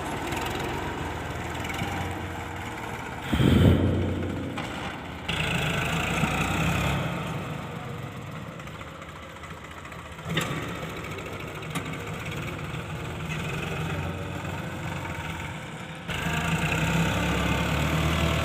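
Sonalika tractor's diesel engine running at low revs, with a louder low burst about three and a half seconds in and abrupt shifts in the engine sound twice later on.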